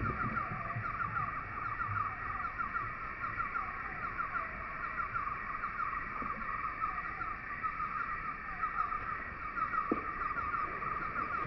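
Outdoor nature ambience: a dense, steady chorus of rapid high chirps, with a few faint lower calls.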